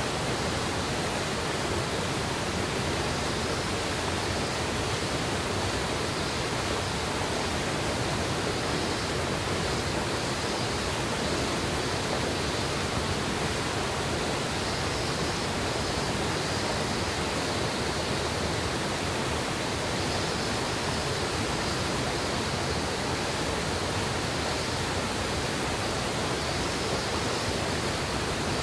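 Steady, even rush of a mountain river's water flowing over rocks.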